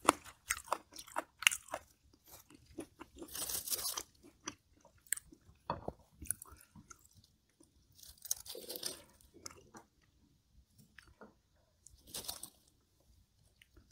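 Close-miked crunchy chewing of crisp food, dense in the first couple of seconds and sparser after. A few soft rustling swishes follow as perilla leaves are handled to make a leaf wrap.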